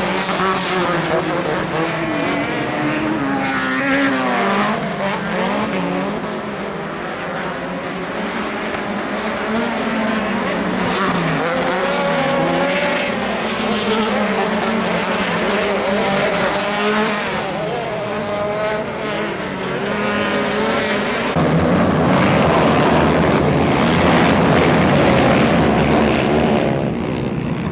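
Off-road racing engines running hard on track, several engine notes rising and falling as the drivers rev up and shift. About three-quarters of the way through, the sound turns into a louder, rougher rush.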